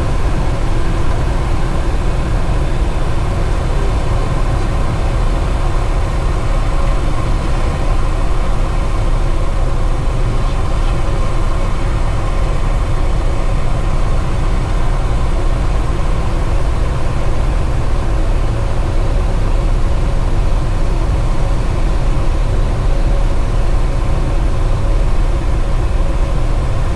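Cessna 172 engine and propeller droning steadily, heard from inside the cockpit.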